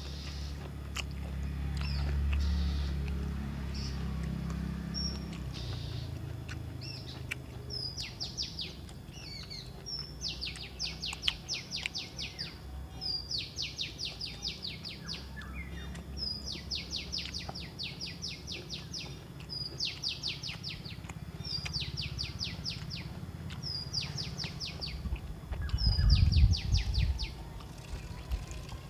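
A songbird singing the same short song over and over: each phrase is a quick, high trill, repeated every couple of seconds, starting about a quarter of the way in. A low rumble runs underneath and swells into a louder burst near the end.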